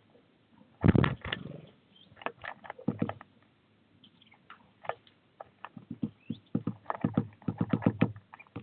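A bird moving about close to a feeder camera's microphone: irregular knocks, taps and scrapes of its feet and beak on the wire and feeder, loudest about a second in and coming thick and fast near the end.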